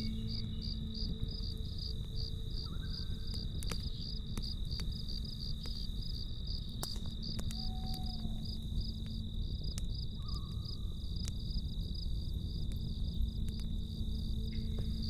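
Crickets chirping in an even pulse of about four chirps a second over a steady high insect trill, with scattered crackles from a campfire and a low steady hum underneath.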